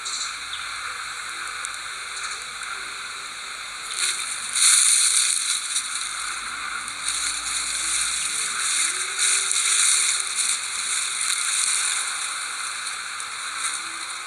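Someone blowing on a smouldering tinder bundle to coax a friction-fire ember into flame: a breathy hiss that rises and falls in gusts, loudest about four and a half seconds in.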